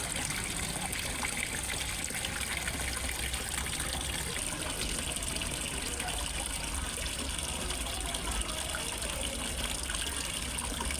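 Water steadily splashing and trickling into a fish pond, an even rushing with a low steady rumble underneath.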